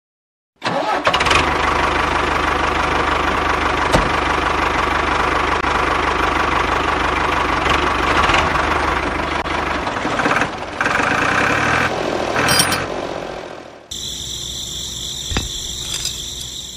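Miniature model tractor running with a steady engine-like drone and some knocking, starting after a brief silence about half a second in. Near 14 s it drops to a quieter sound with a thin high whine.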